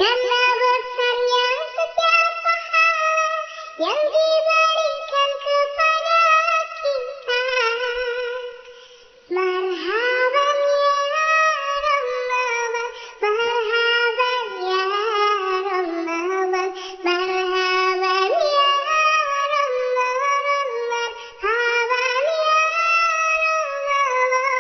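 A high-pitched, synthetic-sounding singing voice singing a shalawat melody, gliding smoothly between held notes, with a short break in the singing about eight seconds in.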